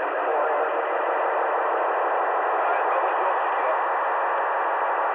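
Steady hiss of FM radio static from an amateur radio receiver, with no readable voice in it. It is the sound of a transmission on the repeater coming through too noisy to copy.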